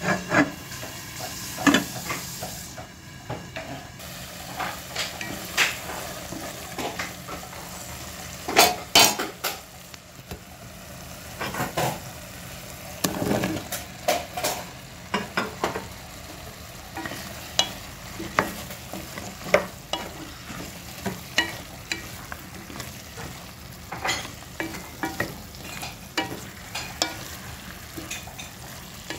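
Turnip chunks sizzling in oil and tomato masala in a nonstick pot, with a spatula scraping and knocking against the pot as they are stirred. Irregular sharp clicks and knocks ride over a steady sizzle, busiest about a third of the way in.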